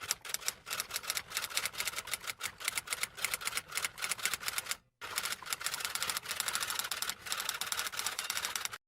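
Rapid typing: fast, irregular key clicks in two runs, a short pause after about five seconds between them.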